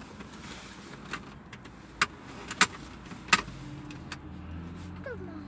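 Inside a stationary car with the engine idling as a low steady hum, three sharp clicks sound in the middle, the second the loudest.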